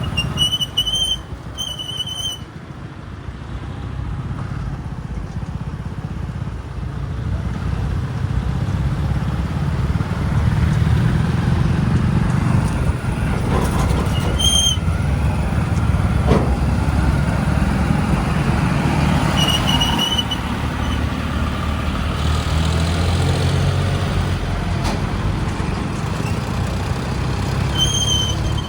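Heavy diesel machinery engines running at a loading site, the low rumble swelling and staying louder from about ten seconds in. Short high beeps sound in pairs near the start, again in the middle, and near the end.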